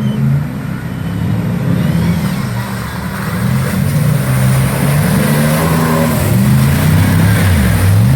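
Off-road 4x4 engine revving hard, its pitch rising and falling again and again as it works through rough ground, growing louder near the end.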